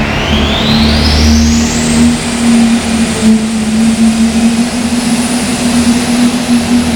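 Hot super stock diesel pulling tractor running hard under load during a pull. A high whine rises over about the first two seconds and then holds steady above the loud engine.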